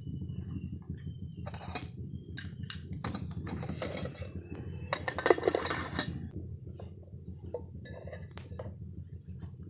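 Clinks, taps and scraping of camp cookware and utensils being handled, busiest and loudest about four to six seconds in, over a steady low background noise.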